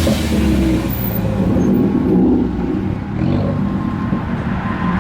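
Car engine running with small rises and falls in revs, a low, steady drone.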